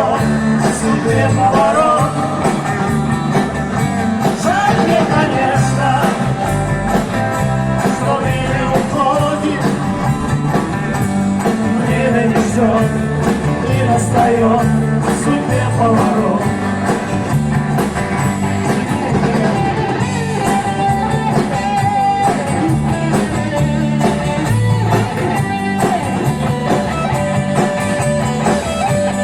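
Live band music in a rock style with guitar to the fore, playing steadily throughout.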